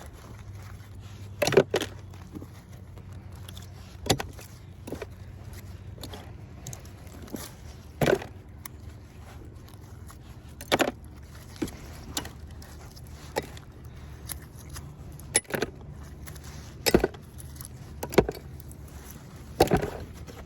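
Scrap metal clinking and knocking as pieces are pried off a magnet-fishing magnet, with irregular sharp metallic clinks every second or two.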